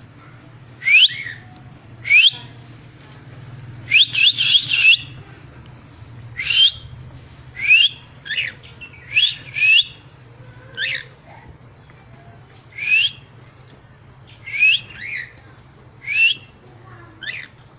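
Cockatiels calling: a long series of short, sharply rising whistles, roughly one every second or so, with a quick run of four or five about four seconds in.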